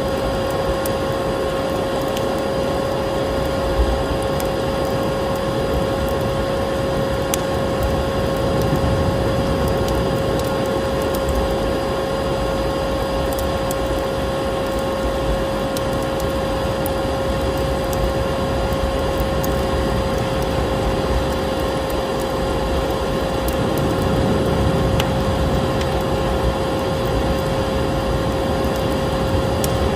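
Vacuum cleaner motor running at a steady pitch, mixed with a crackling wood fire whose small pops and snaps are scattered throughout.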